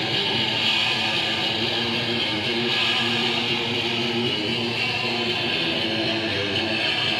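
Distorted electric guitar played on its own in a live hardcore set, holding sustained, ringing notes without bass or drums.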